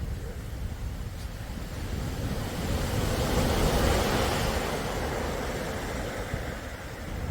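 Sea waves washing ashore: one wave swells to a peak about halfway through and then subsides, over a steady low rumble of surf.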